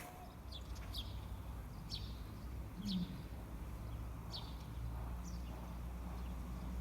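Short high bird chirps, roughly one a second, over a steady low rumble.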